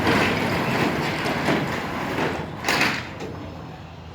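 Spring-assisted roll-up rear door of a box truck rattling as it rolls in its tracks, with a bang just under three seconds in as it comes to a stop.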